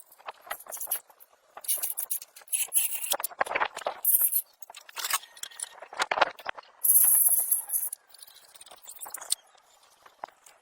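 Irregular scraping and clicking, with several short hissy scrapes, the longest about a second long about seven seconds in.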